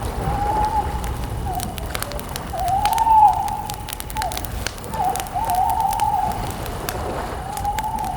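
Wood campfire crackling, with scattered sharp pops over a low rumble of the flames. A wavering mid-pitched sound comes and goes in swells alongside it.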